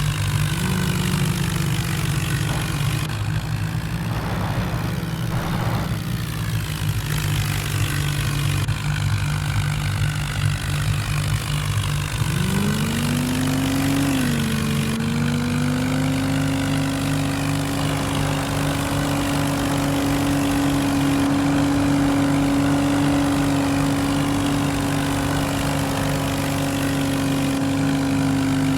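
A Sonalika tractor's diesel engine and a car's engine running together, pulling against each other in a tug-of-war. About twelve seconds in, one engine revs up and holds a high, steady pitch.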